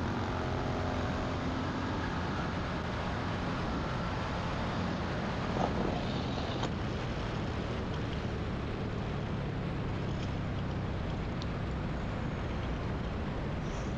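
Motorcycle engine running at a steady speed under heavy wind noise, heard from a bike being ridden fast.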